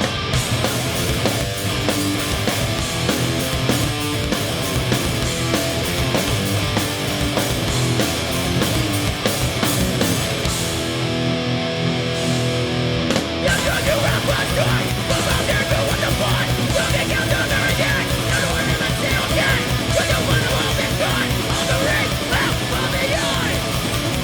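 Live hardcore punk band playing an instrumental stretch with distorted electric guitars, bass and drums. About halfway through, the drums start a faster, busier beat.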